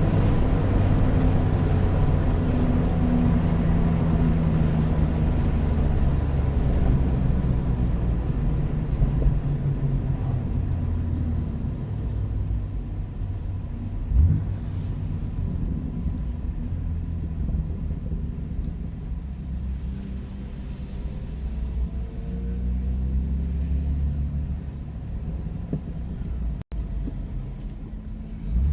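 BMW F80 M3 Competition's twin-turbo inline-six running at low, easy revs with road rumble, getting somewhat quieter through the stretch. There is a single brief knock about halfway.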